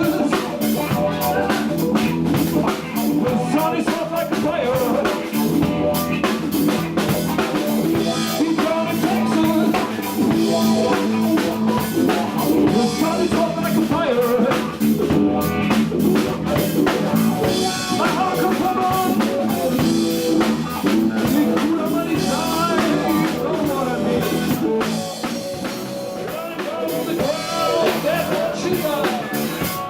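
Live blues-rock band playing, led by a drum kit with electric guitar.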